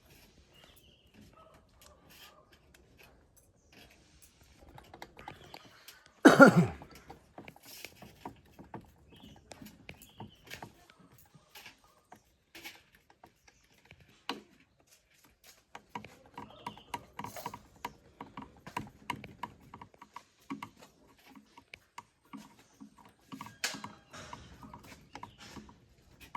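Scattered light clicks and knocks of workshop handling, with one much louder sound that falls in pitch about six seconds in and denser clicking in the second half.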